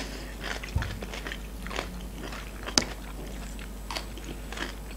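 Mouth crunching and chewing fresh cucumber slices close to the microphone: scattered crisp crunches, the sharpest about three seconds in.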